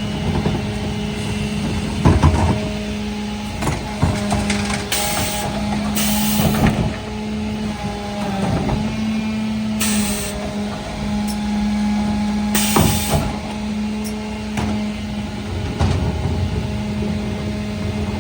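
Mercedes Econic refuse truck with a Faun Variopress body working a collection: engine and hydraulics running with a steady hum, knocks and clanks of wheelie bins on the Zoeller lifter, and four short hisses of air.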